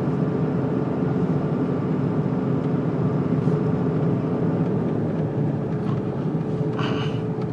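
Steady road and engine noise of a car driving at speed, heard from inside the cabin: an even hum with a constant drone and tyre noise.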